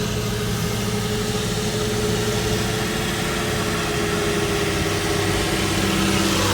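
Diesel engine running steadily at idle, its note growing a little louder near the end. It has an injector that the owner says is still clicking, a fault not yet fixed.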